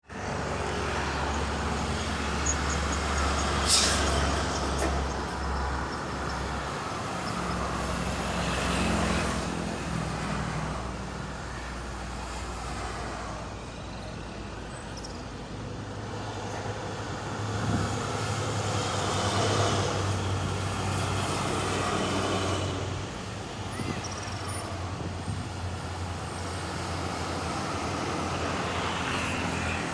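Highway traffic: vehicle engines running and tyre noise swelling and fading as cars and trucks pass, over a steady low engine hum. A short sharp hiss comes about four seconds in.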